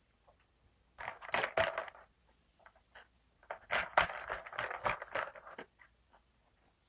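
Close-miked chewing of a crunchy snack: a burst of crackly crunching about a second in, then a longer burst of crunching a couple of seconds later.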